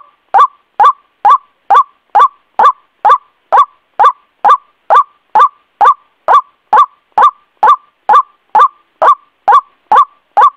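White-breasted waterhen (ruak-ruak) calls from a repeating lure recording: a steady run of short, identical calls, each sweeping sharply up in pitch, about two a second.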